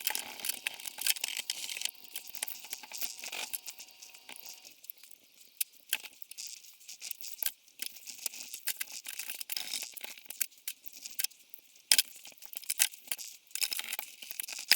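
Stiff toothbrush bristles scrubbing grease and dirt off a metal carburetor body by hand: quick, scratchy back-and-forth brushing strokes, with a few sharp clicks from handling the part.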